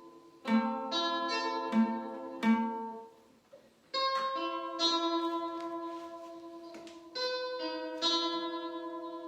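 Slow guitar music: plucked notes and chords that ring on and fade away. There is a short pause about three seconds in, then long sustained chords.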